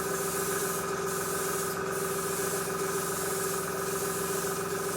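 Airbrush spraying a fine mist of paint: a steady hiss of air that dips briefly twice near the start, over a steady hum.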